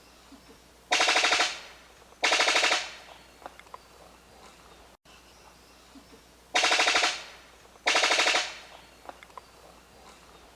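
Brown sicklebill, a New Guinea bird-of-paradise, giving its loud machine-gun-like rattling call. It calls four times in two pairs: a pair about a second in and another pair near the seven-second mark. Each call is a fast stutter of pulses about half a second long that trails off into an echo.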